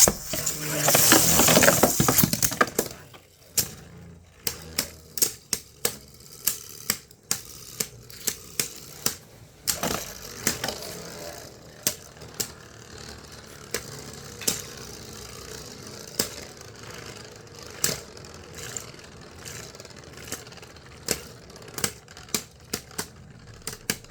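Plastic Beyblade spinning tops, a Gyro Engine Gear free-spin combo against an opponent, launched into a plastic stadium with a loud whooshing rush in the first couple of seconds. They then spin and clash, with many sharp irregular clicks of the tops striking each other and the stadium wall over a steady scraping whir.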